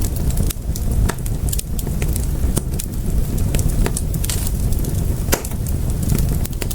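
Fire in a fireplace crackling: irregular sharp pops and snaps, a few of them louder, over a steady low rumble of the flames.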